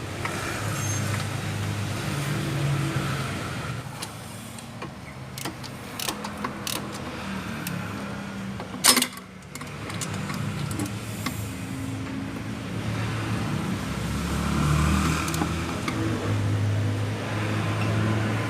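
Workshop sounds during engine work: a few sharp clicks and one loud knock about nine seconds in, over a low, wavering vehicle-like hum.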